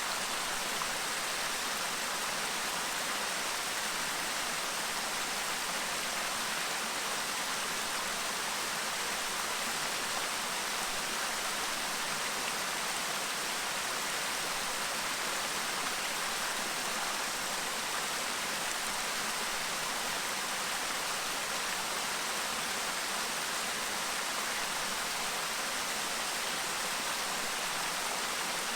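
Clear stream babbling steadily over stones, a constant rushing of water with no breaks or changes.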